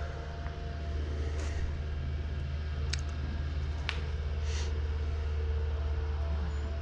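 A steady low droning hum with a few faint, brief clicks and taps scattered through it.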